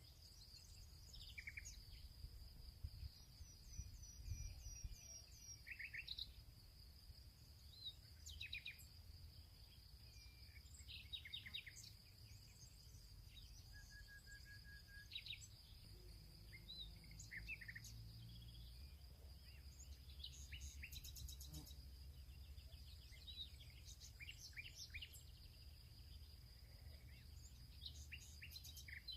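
Faint outdoor field ambience: several wild birds giving short, scattered chirps and quick trills, over a steady high-pitched whine and a low rumble.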